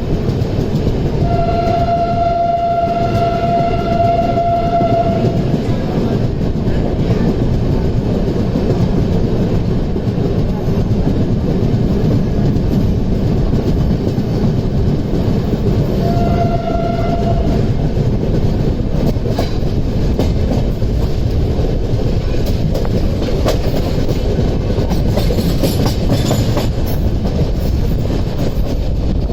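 Passenger express train running at speed, a steady rumble of wheels on rails, with the locomotive's horn sounding twice: one long blast of about four seconds near the start and a short one about sixteen seconds in.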